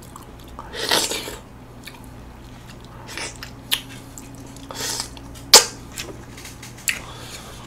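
Close-up mouth sounds of eating golden kiwi: a few short wet chewing noises and sharp mouth clicks with quiet gaps between, the sharpest click about five and a half seconds in.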